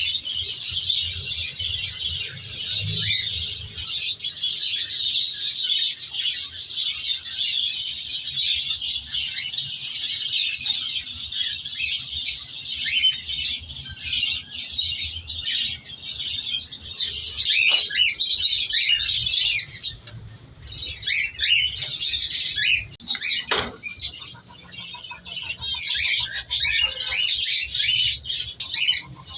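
A colony of cockatiels chirping and calling over one another in a dense, continuous chatter, with two brief lulls in the last third.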